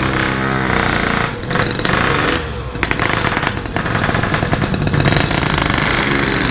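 Yamaha RX-King single-cylinder two-stroke motorcycle engine revving up and down with a rapid, rattling exhaust note, its pitch sliding and dipping several times. The engine runs rough and knocks from a badly damaged piston, in the owner's words.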